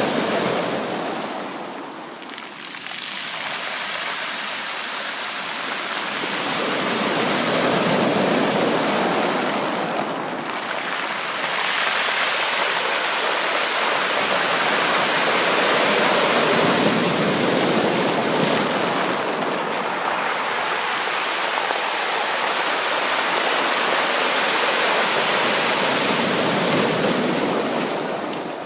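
Sea waves washing on a beach: a continuous rushing that swells and eases. It dips about two seconds in, builds to a surge, eases briefly around ten seconds, then holds a long, full wash until near the end.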